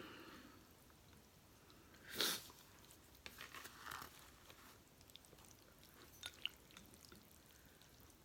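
Faint chewing of instant noodles, with a short louder noise about two seconds in and a few small clicks later on.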